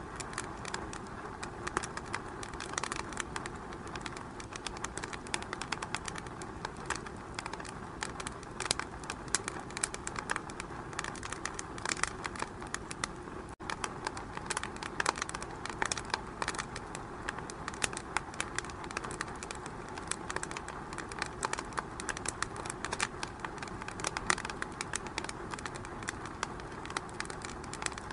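Wood fire crackling in a fireplace: a steady hiss with frequent, irregular sharp pops and snaps. It drops out for an instant about halfway through.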